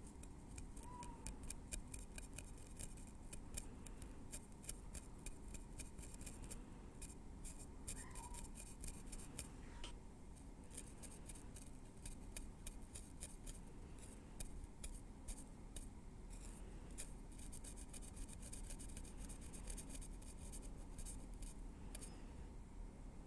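Metal tweezers working through hair on the scalp: soft, crisp tip clicks and light scratches in quick, irregular runs.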